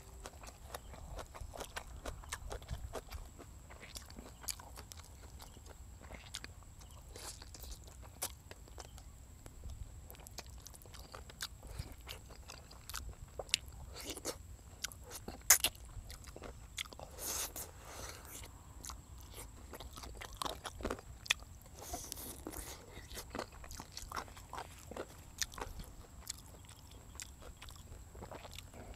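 A man eating braised pork leg close to the microphone: irregular bites, crunches and chewing, with sharper clicks here and there, the loudest about fifteen seconds in.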